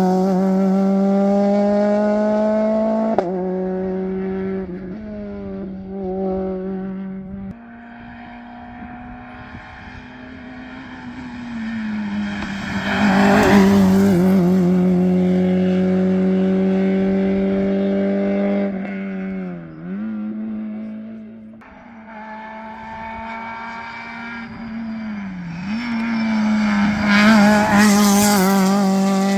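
Modern rally car engines running at high revs on a special stage. The pitch holds nearly level, dipping briefly twice in the second half, and the sound swells loudest around the middle and again near the end as cars come close.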